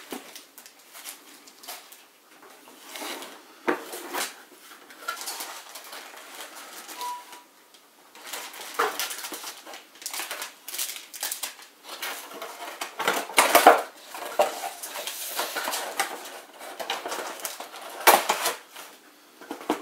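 Computer-part boxes and packaging being moved aside and set down on a work surface: irregular knocks, light clatter and rustling, loudest around 13 and 18 seconds in.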